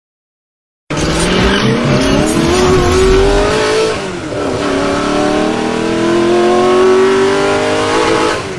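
Car engine accelerating hard at high revs, its pitch climbing, dropping at a gear change about four seconds in, then climbing again. It cuts in suddenly after a second of silence.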